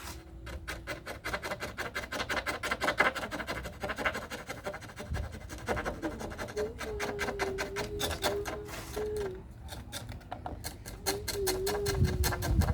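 Rapid, rhythmic rubbing strokes of hand filing or sanding, several strokes a second. Twice in the second half, a wavering tone joins it for a few seconds.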